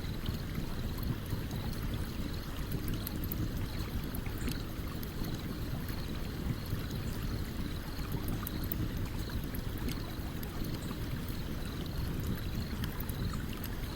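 Stream water running steadily, with a campfire crackling over it in scattered small pops.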